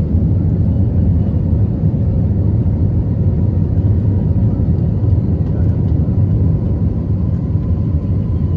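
Steady low rumble of an Airbus A320's engines and airflow heard inside the passenger cabin, with a faint steady whine above it.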